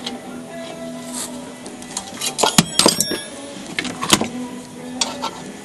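A cluster of sharp clicks and clanks about two to three seconds in, and another knock a little after four seconds, from hand tools and engine parts being handled during an engine install.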